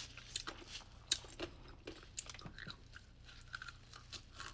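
Someone chewing a bite of a Dubai chewy cookie, with faint, irregular crunches and clicks from its roasted kataifi and pistachio filling.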